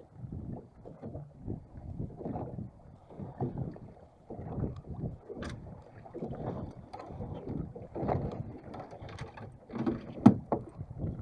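Water slapping and lapping against the hull of a small boat in uneven swells, about once a second. A sharp knock about ten seconds in is the loudest sound.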